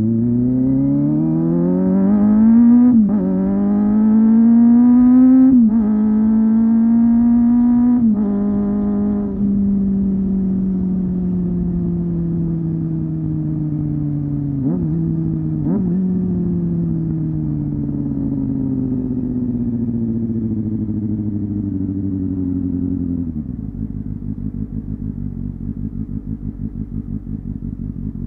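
Honda Hornet 250 inline-four engine and exhaust accelerating hard. The revs climb and drop three times in quick succession as the rider shifts up through the gears. The engine then holds and slowly winds down, with two short rev blips. Near the end it falls to a low, lumpy idle.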